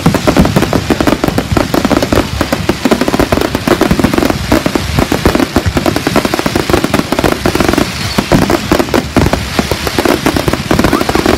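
Fireworks going off in a loud, continuous barrage of cracks and pops, many bursts a second with no let-up.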